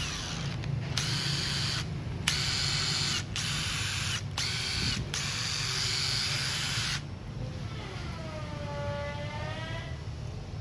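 Makita DTW285 18V cordless impact wrench run in a series of short trigger pulls, six loud bursts with a high motor-and-gear whine and brief gaps between them. After that a fainter wavering tone follows.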